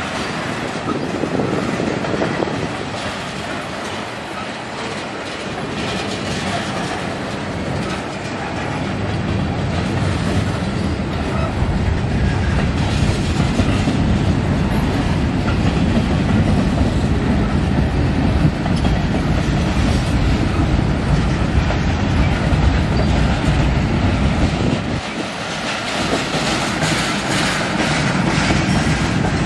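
Freight train cars rolling past: the steady rumble of steel wheels on rail, with the clickety-clack of wheels over rail joints. It gets louder about a third of the way through and dips briefly near the end.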